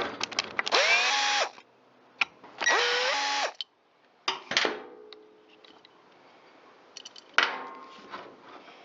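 Power drill-driver with a T27 Torx bit backing out the chainsaw's muffler screws: two short runs of about a second each, the motor whine rising then holding steady. Metal parts clink and knock afterwards, with the sharpest knock about seven seconds in.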